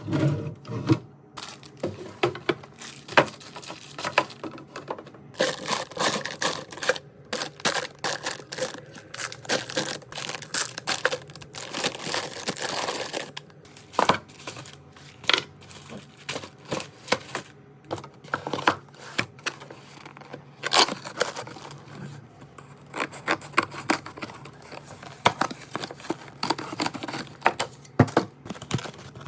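Packaging being crinkled and torn, an irregular run of rustles and sharp crackles.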